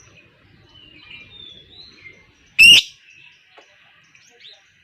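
Lovebird calling: a few faint, soft gliding whistles and chirps, then one loud, shrill call a little past halfway.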